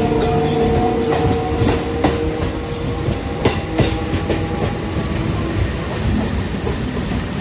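MEMU electric passenger train running on the track, its wheels clacking sharply over rail joints now and then, with a steady whine under the rumble that fades after about two seconds.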